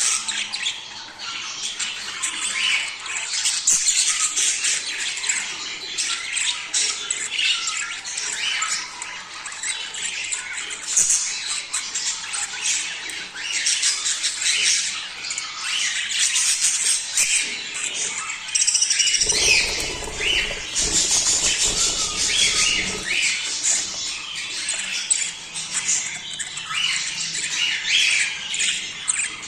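A flock of budgerigars chattering and squawking without pause, the kind of breeding chatter used to get pet budgies into the mood to mate. A low rumble joins in for a few seconds past the middle.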